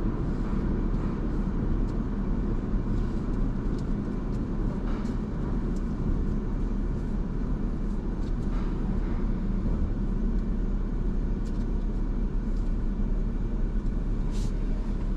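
Steady low rumble of an automatic drive-through car wash heard from inside the car, with a few faint ticks and taps.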